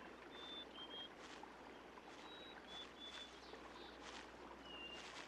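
Faint woodland ambience: a steady soft hiss with short, high whistled bird notes every second or so.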